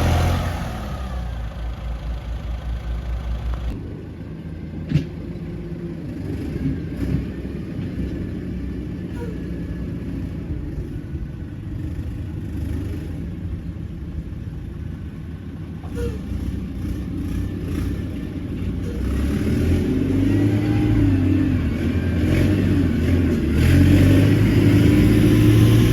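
Heavy diesel earthmoving machinery running. The engine note drops within the first second, runs lower with a single sharp knock about five seconds in, then climbs and grows louder over the last several seconds as the engine revs up.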